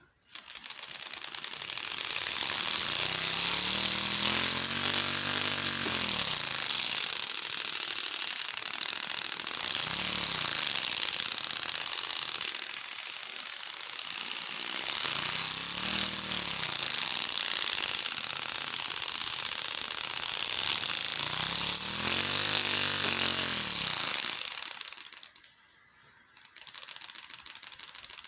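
Homemade LEGO Technic engine-sound contraption running, a turning part rapidly flicking a piece of paper to make a clattering, engine-like putter. It is spun up and slowed down about four times, the pitch rising and falling like revving, then dies away near the end.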